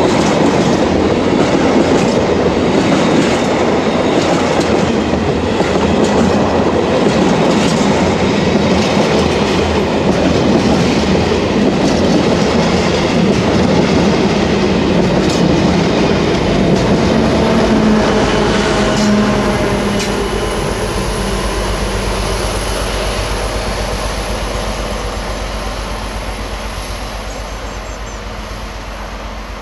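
Tank wagons of a long freight train rolling past close by, wheels clattering over the rail joints. From about two-thirds of the way through the clatter fades and the low drone of a diesel locomotive comes through: the pushing locomotive at the rear of the train.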